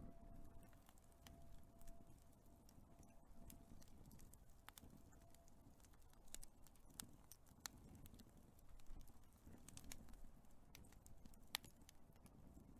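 Big wood fire crackling faintly: irregular sharp pops and snaps over a low rumble, with one louder pop near the end.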